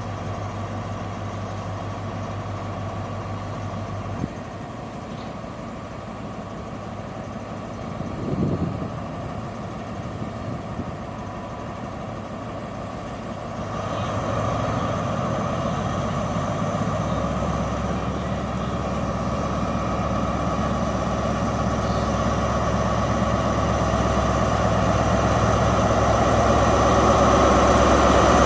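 Diesel train engines idling at a station platform, a steady low hum with a couple of knocks, then, about halfway through, a louder engine sound that builds steadily toward the end as a train comes closer or powers up.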